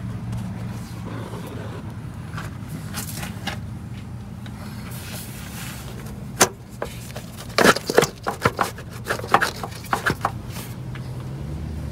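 Knocks, clacks and scrapes of hard parts as the intake manifold of a Ford 4.6L V8 is worked loose by hand. They come in a quick irregular cluster from about halfway in, over a steady low hum.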